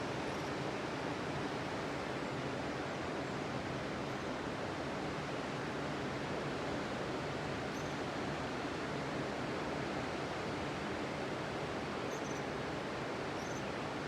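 Steady wash of ocean surf breaking on a sandy beach, an even rushing noise with no distinct single wave crashes. A few faint high chirps come about halfway through and again near the end.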